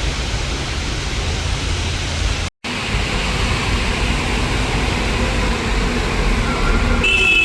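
Intercity coach heard from inside the cabin: a steady rumble of engine and tyre road noise. It drops out for a moment about two and a half seconds in, and a brief high-pitched squeal with several steady tones comes in near the end.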